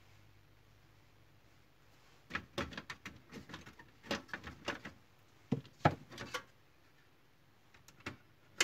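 Printer parts being handled during reassembly: a run of quick clicks and knocks for about four seconds, then two single clicks near the end.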